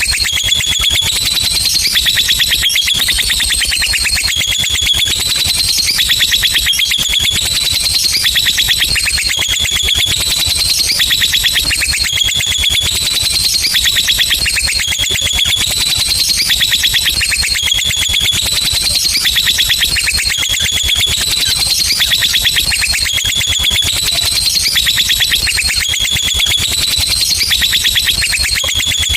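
Lovebird singing a long, unbroken ngekek: a rapid, high-pitched chattering trill that runs on without a pause, its phrases recurring every couple of seconds.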